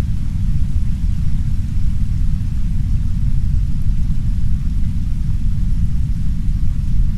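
Steady, heavy brown noise: a deep, even rumble with no breaks or changes, under a faint, soft hiss of rain.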